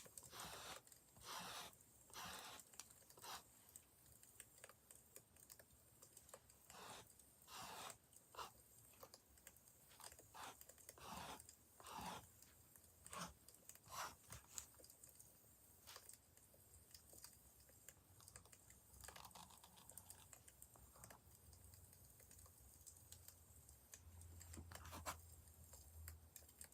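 Faint, irregular crackles and pops of burning firewood.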